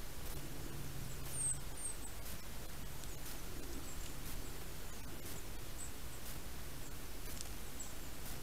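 Several short, very high, thin calls of a small bird, a few seconds apart and the clearest about a second and a half in, over a steady low hum and hiss.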